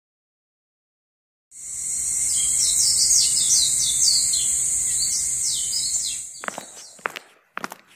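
Outdoor nature ambience beginning about a second and a half in: insects buzzing steadily at a high pitch while a bird repeats short, falling chirps. Near the end it fades and a few sharp clicks or knocks follow.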